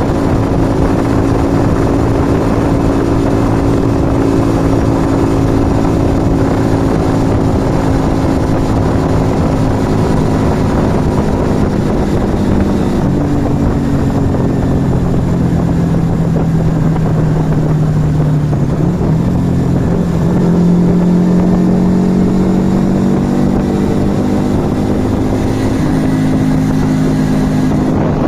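Yamaha XV125 Virago's small V-twin running through a Turbo Kit aftermarket exhaust while being ridden. The engine note holds steady, drops about halfway through, climbs again, and drops once more near the end.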